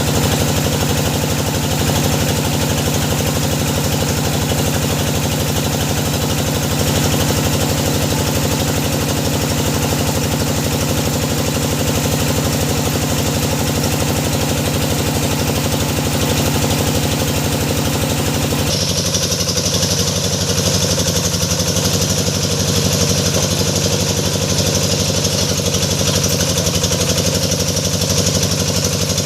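Engine of a hydraulic deep-well drilling rig running steadily under load; about two-thirds of the way through its tone changes abruptly, with the hiss shifting higher and the low tones changing slightly.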